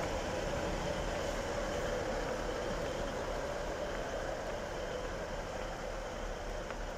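Class 156 diesel multiple unit running steadily, an even engine drone with a held tone above it.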